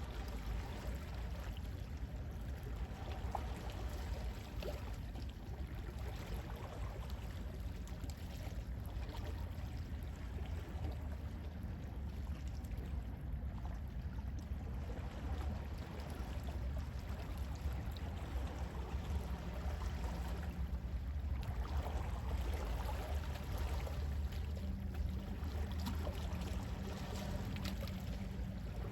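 Gentle sea waves washing in and out, a steady watery rush with soft swells, heavy in the low end.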